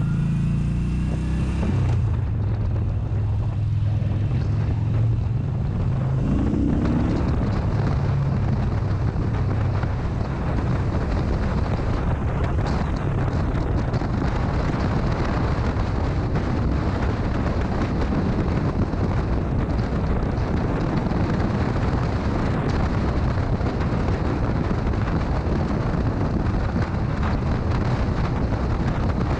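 Motorcycle under way at speed, heavy wind buffeting on the microphone over the engine. The engine's note is clear for the first couple of seconds, then the wind noise covers most of it.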